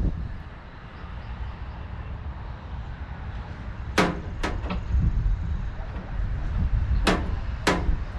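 Sharp knocks over a low steady rumble: three close together about four seconds in, and two more near the end.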